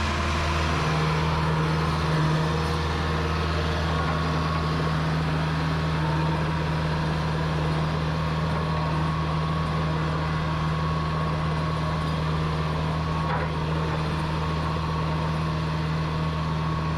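An engine running steadily at an even speed, giving a constant low hum.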